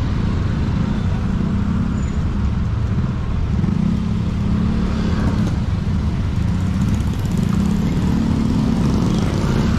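Motorcycle engine running while riding, with wind and road noise, heard through a GoPro's foam-covered microphone. The engine note strengthens a couple of times, about three and a half and seven and a half seconds in.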